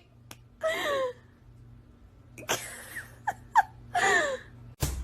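Several short whining animal cries, two of them falling in pitch and a few brief rising ones.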